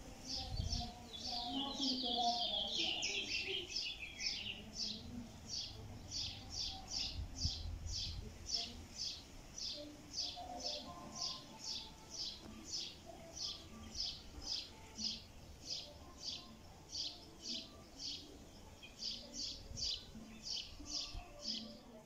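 A bird calling in a fast, steady series of short, high, down-slurred notes, about two or three a second, with a brief lower warbling phrase from another bird about two seconds in.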